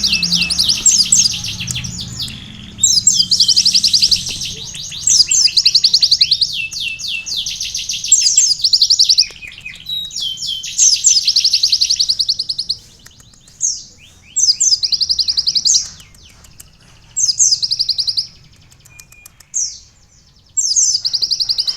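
Sunbird (Indonesian 'kolibri') singing a canary-style song: rapid high trills in repeated phrases. The phrases run almost together at first and later come as separate bursts of about a second with short pauses between them.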